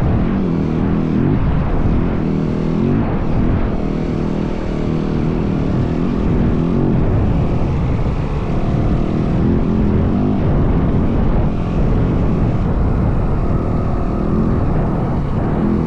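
Yamaha WR450F dirt bike's single-cylinder four-stroke engine running under way off-road, its pitch rising and falling with the throttle, with steady wind buffeting over it.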